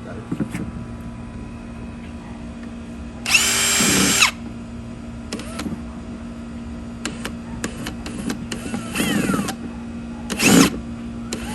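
Electric drill run in short bursts while drilling a hole, its motor whining up to speed each time: a longer run about three seconds in, then two shorter runs near the end.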